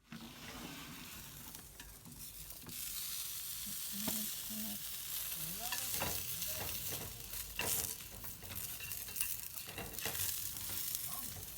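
Food sizzling as it fries in a pan, with a steady hiss and occasional sharp knocks of a utensil.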